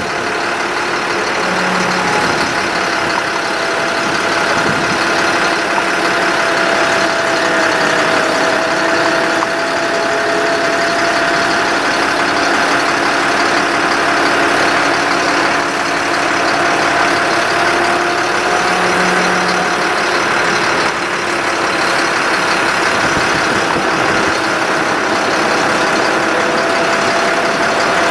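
Ford F-750 truck engine running steadily with the PTO engaged, a steady mid-pitched whine with a slight waver over the engine noise.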